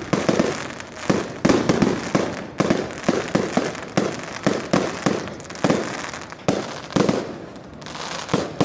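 Fireworks finale: a rapid run of sharp bangs, about two to three a second, with crackling between them.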